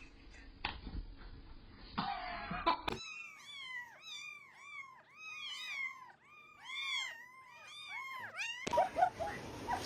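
A cat mewing in a rapid series of more than a dozen short, high calls, each rising and falling in pitch. The calls start about three seconds in.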